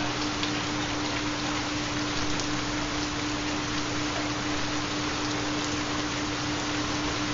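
Recorded rain falling steadily, with a steady low tone underneath: the carrier of a 4 Hz theta binaural beat.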